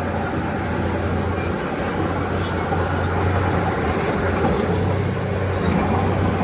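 Komatsu D31P bulldozer's diesel engine running steadily under work, with a constant low hum and scattered short, high squeaks from the machine.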